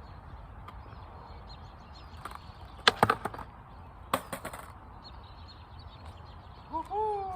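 Skateboard knocking on pavement: a quick cluster of sharp clacks about three seconds in and another about a second later, over a steady low background rumble. Near the end comes a short pitched call that rises and then falls.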